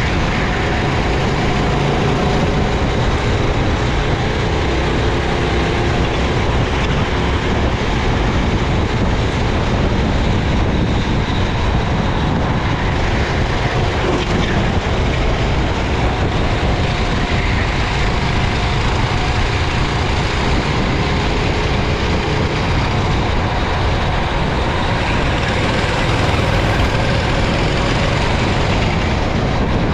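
Racing kart engine heard from an onboard camera, its pitch rising and falling with the throttle through the corners. Underneath is a steady hiss of wind and spray off the wet track.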